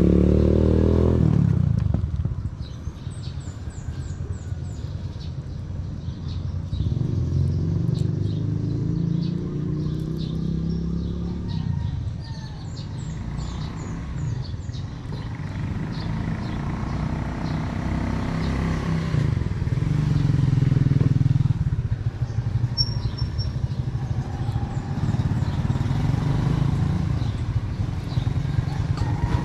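A vehicle engine running while travelling, its pitch rising and falling as it speeds up and slows down.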